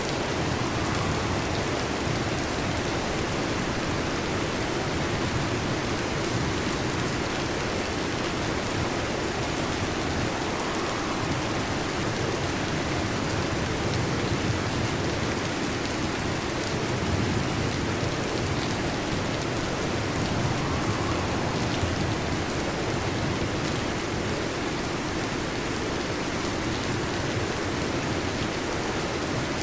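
Heavy rain drumming steadily on a metal roof, an even wash of noise with no let-up.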